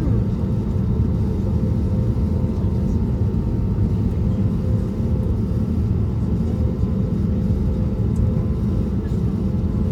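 Steady drone of an Airbus A320neo's two CFM LEAP-1A26 engines heard inside the economy cabin: an even low rumble with a faint steady hum above it and no change in pitch.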